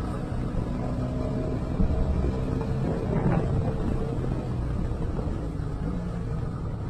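Moving car's engine hum and road noise: a steady low drone with a short knock about two seconds in.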